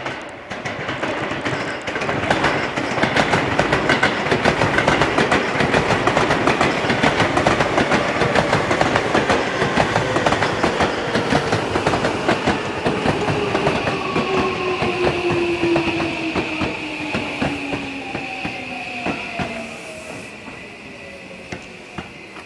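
Seibu 6000 series electric train running past and braking into a station. Its wheels clatter rapidly over the rail joints, and a whine falls steadily in pitch through the second half as the train slows, fading near the end.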